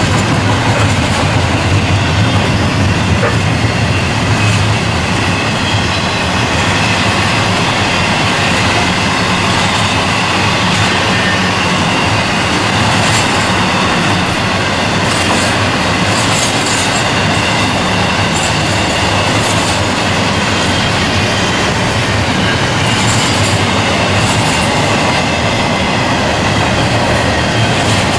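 Double-stack intermodal freight train rolling by: a steady, loud rumble and rattle of steel wheels on the rail, with brief high squeals from the wheels a few times.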